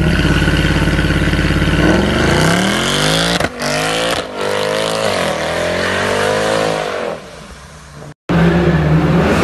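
Mercedes-Benz C63 AMG's 6.2-litre V8 held at a steady rev, then accelerating hard as the car pulls away, its pitch climbing through the gears with two quick upshift breaks a little after three and four seconds, then fading with distance. Near the end it cuts abruptly to another loud engine.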